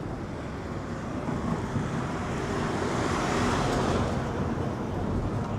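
A vehicle passing close by on the street, its road and engine noise swelling to a peak about three and a half seconds in and then fading.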